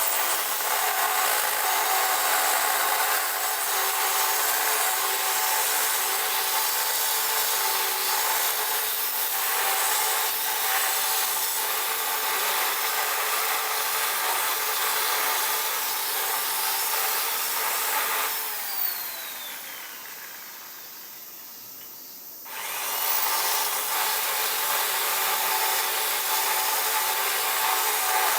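Electric hand power tool running steadily, working on metal or wood. About 18 seconds in it is let off and winds down with a falling whine; about 22 seconds in it starts again and runs on.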